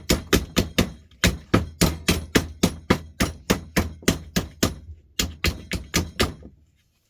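Rapid hammer blows, about four a second, knocking parts out of a scrapped electrical fitting, with brief pauses about a second in and near five seconds, stopping shortly before the end.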